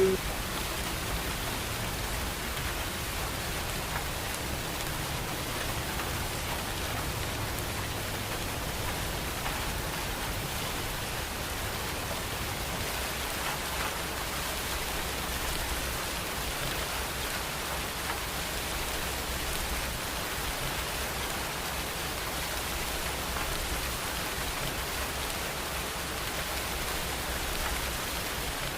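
Steady rain falling, an even hiss of raindrops without distinct thunderclaps.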